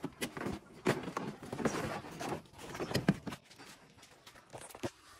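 Hand tools clinking and knocking on the car's suspension parts: an irregular run of sharp taps and clicks, busiest in the first three seconds and thinning out toward the end.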